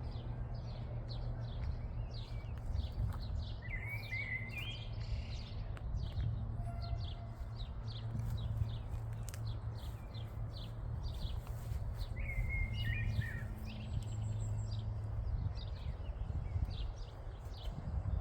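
Wild birds chirping: a dense run of short, quick chirps, with a louder warbling call about four seconds in and again about twelve seconds in, over a steady low rumble.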